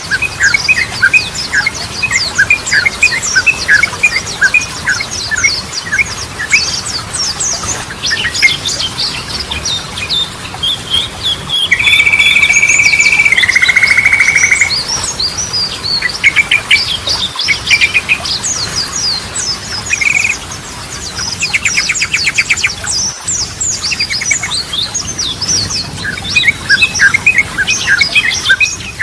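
Yellow-vented bulbul (trucukan) singing: rapid, chattering runs of short chirps, with a held whistle about twelve seconds in that steps down in pitch, and a fast trill near the twenty-two second mark.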